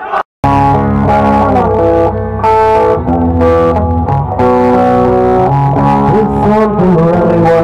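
Distorted electric guitar playing held chords and melody notes over a bass guitar line, starting abruptly after a split-second dropout.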